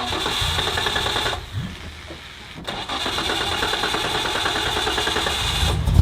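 A Nissan Skyline's engine being cranked on its starter motor in two goes, the second longer, with the engine catching into a deep low rumble near the end. The engine is hard to start and doesn't want to run.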